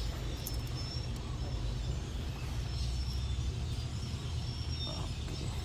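Hyundai Starex's D4BB diesel engine idling, a steady low hum with a few faint ticks over it.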